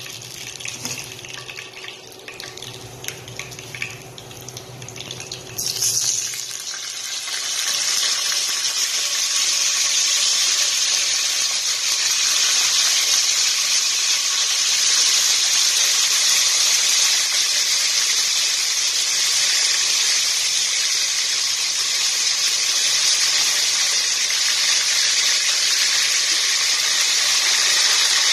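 Chicken pieces frying in hot oil in a pan. Light crackling at first, then about six seconds in a loud, steady sizzle starts as raw pieces go into the oil, and it holds.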